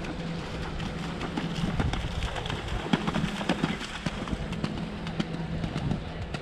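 Horse hooves clopping in an irregular run of short knocks, over a steady low hum.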